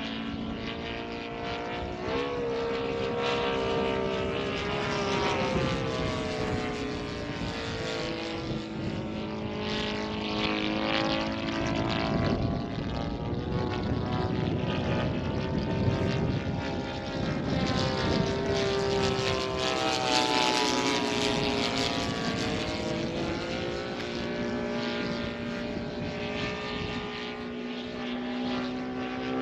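Laser 200 in-line twin four-stroke engine of a radio-controlled model Hurricane in flight, its note rising and falling repeatedly as the plane passes back and forth. The engine is not running right, with its tuning out.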